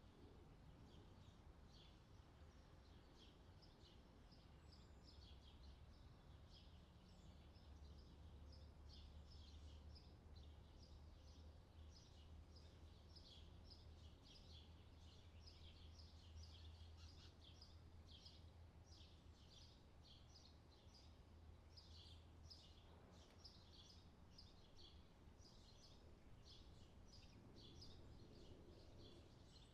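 Faint outdoor summer ambience: small birds chirping over and over, several short chirps a second, over a low steady rumble.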